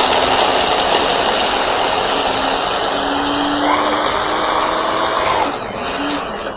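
Electric blender running steadily, chopping basil, garlic, almonds and olive oil into pesto, then winding down and stopping about six seconds in.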